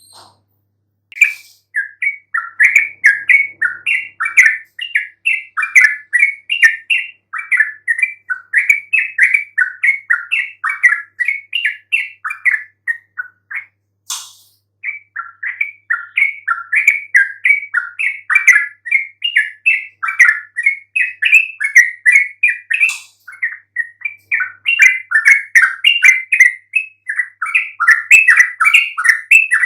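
Yellow-vented bulbul (trucukan) in full song: a fast, continuous stream of chattering notes. It breaks off briefly about halfway, then carries on.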